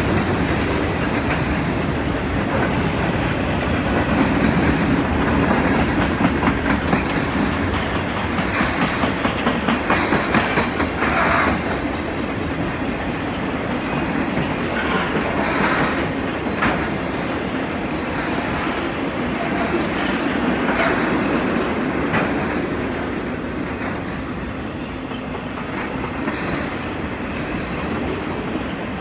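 Freight train cars rolling past at close range: a steady rumble of steel wheels on the rails with clickety-clack over the rail joints, and brief high-pitched wheel squeals several times.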